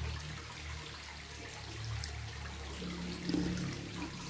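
Wet chewing and mouth sounds of someone eating a mouthful of rice with squid sambal, with a few faint clicks, over a steady low hum.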